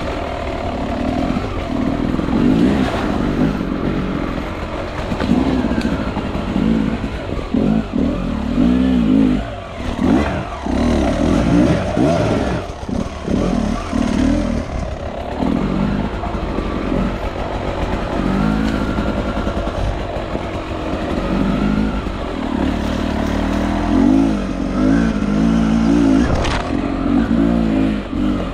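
Enduro motorcycle engine revving up and down again and again while riding off-road, pitch and loudness rising and falling every few seconds.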